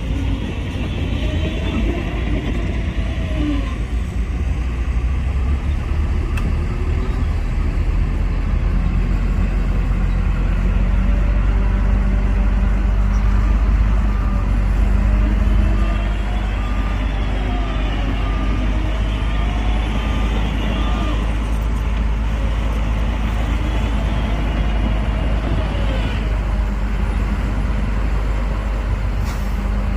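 Heavy diesel machinery, dump trucks and a bulldozer, running with a steady deep rumble. Through the middle, a steady beeping sounds over it.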